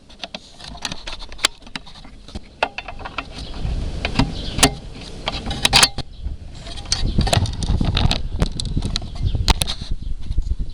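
Handling noise from a jostled camera: irregular clicks, knocks and rustling over a low rumble that gets louder about halfway through.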